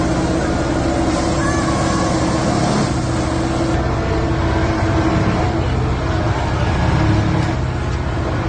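Railway track-maintenance machine compacting the ballast: its engine and working gear run steadily with a constant droning tone over a heavy rumble.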